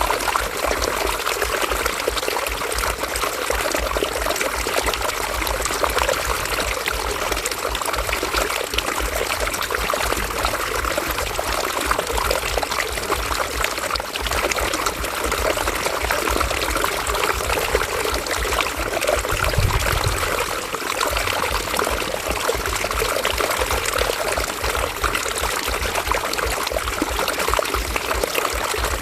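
River water flowing steadily, with a brief low swell about two-thirds of the way through.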